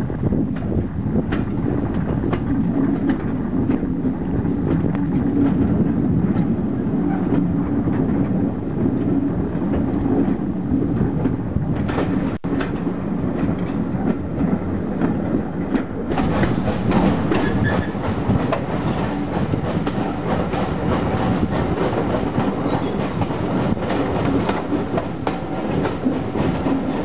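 Steam-hauled passenger train running, heard from an open carriage window: a steady rumble with the wheels clicking over rail joints. About two thirds of the way through the sound turns noisier and fuller.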